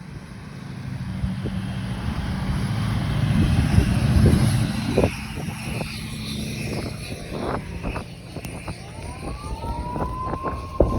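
A motor vehicle running. The low rumble swells to its loudest about four seconds in and then eases off, with scattered clicks, and a whine rises and then slowly falls in pitch near the end.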